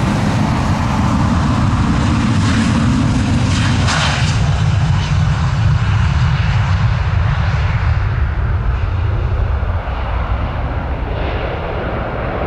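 Jet airliner engines, a loud deep rumble with a hiss on top, that gradually dulls and eases toward the end as the aircraft moves away.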